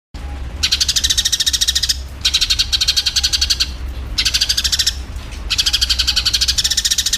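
Eurasian tree sparrows giving fast, harsh chattering fighting calls in four rapid bursts with short breaks between them, over a low steady hum. The sound starts abruptly just after the beginning.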